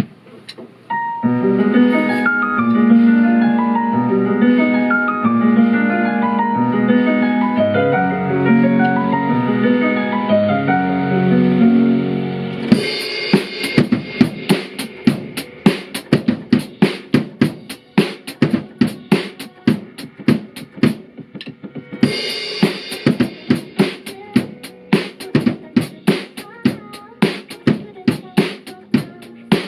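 A pop song's instrumental intro plays with melodic keyboard-like notes and no drums. About thirteen seconds in, a drum kit joins, playing a steady groove of kick, snare and cymbal over the backing track.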